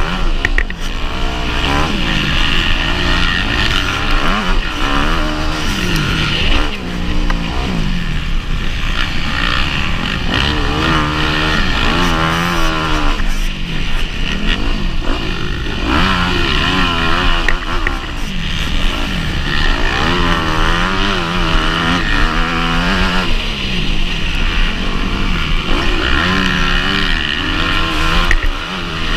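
Motocross motorcycle engine racing, its pitch climbing and dropping again and again as the throttle is worked through the gears.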